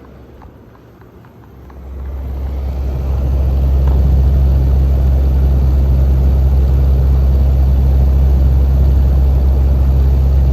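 Midea U-shaped inverter window air conditioner running: a low, steady hum with rushing air that swells over about two seconds early on, then holds loud and even.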